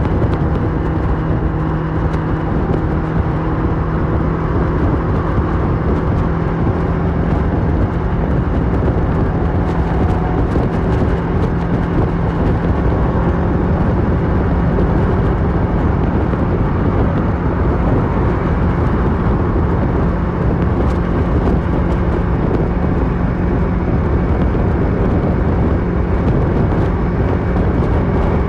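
Kawasaki Versys 650's parallel-twin engine running through a MIVV slip-on exhaust, cruising at fairly steady revs, under a steady rush of wind and road noise.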